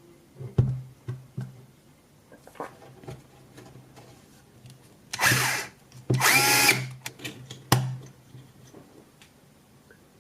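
Milwaukee cordless screwdriver motor run twice in short bursts, each under a second, whirring with a shifting pitch. Clicks and knocks of the tool being handled come before and after the bursts.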